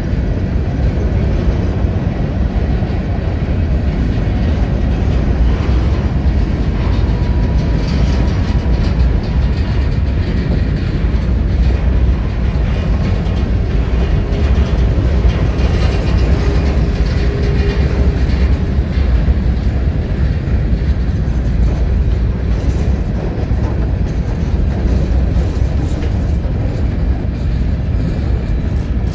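Freight train rolling past, a steady, loud rumble and rattle of wheels on the rails.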